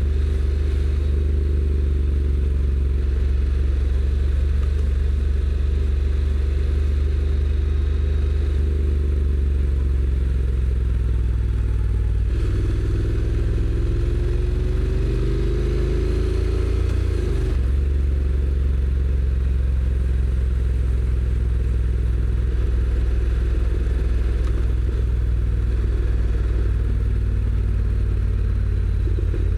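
Honda NC750X's parallel-twin engine running under way through its stock exhaust. About twelve seconds in, the engine pitch climbs steadily for some five seconds as the bike accelerates, then drops suddenly at a gear change before settling back to a steady run.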